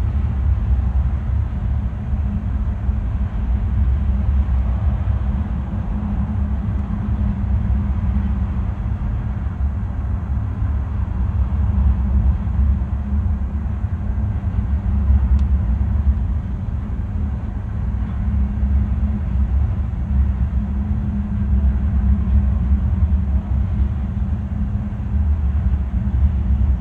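Loaded coal train running by: a steady low rumble with the drone of its diesel locomotives.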